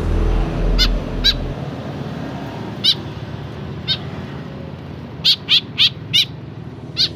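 Baby bird cheeping: short, sharp, falling chirps, scattered at first, then a quick run of four about five seconds in, over a steady background hiss.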